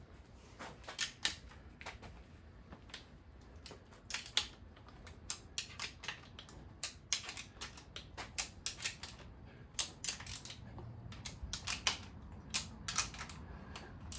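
Irregular light metallic clicks and clinks of hand tools and engine parts as the rocker arms are taken off an engine's cylinder heads.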